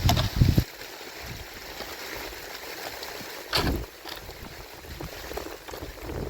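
Steady hiss of rain. A loud low rush cuts off about half a second in, and a short loud burst comes about three and a half seconds in.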